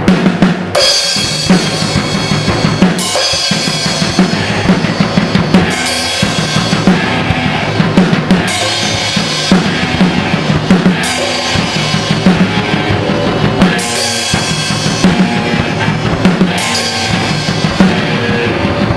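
A rock band playing loudly, the drum kit to the fore, with a cymbal crash about every two and a half seconds.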